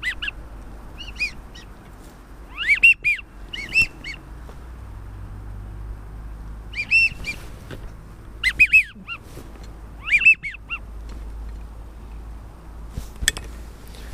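Waterfowl calling: short, arching honk-like calls in bunches of two to four, repeated every second or two, over a steady wind rumble. A single sharp click comes near the end.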